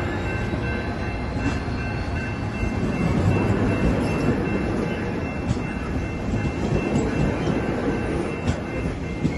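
A train passing close by: a steady rumble of wheels on rail with faint high squealing tones, and a few sharp clicks from the wheels crossing rail joints.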